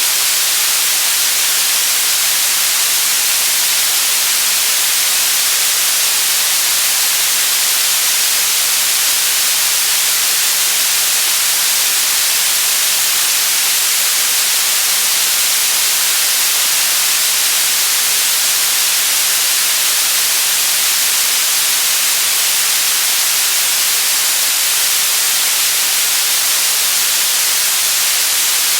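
Synthetic white noise: a steady, unchanging hiss, strongest in the high frequencies.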